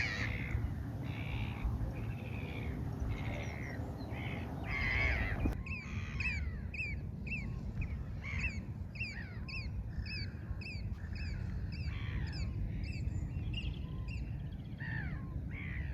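Birds squawking and calling, with low wind noise on the microphone. For the first five seconds or so, harsh calls repeat about twice a second. Then the sound changes suddenly to many quick, high, overlapping calls from a group of birds.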